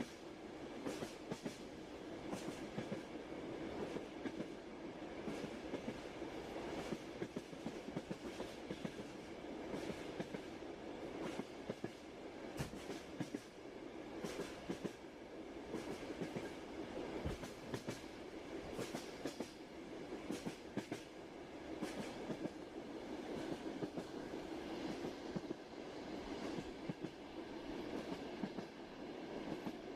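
Passenger train running steadily: a continuous low rumble with the clickety-clack of the wheels over rail joints, sharp clicks coming in repeated clusters.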